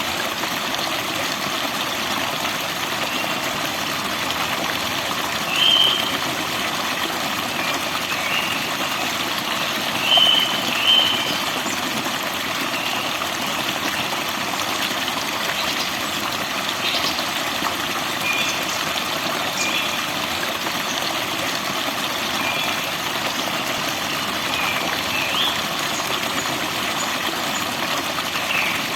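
Steady rush of flowing water with forest birds giving short, scattered chirps over it, a few seconds apart.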